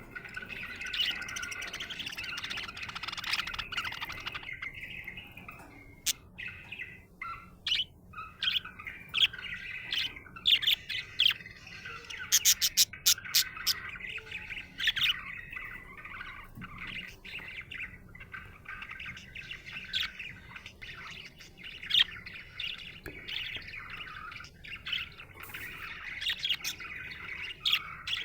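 Budgerigar chirping and warbling on and on, a chatter of trills and whistles broken by sharp clicks, with a quick run of clicks about twelve seconds in.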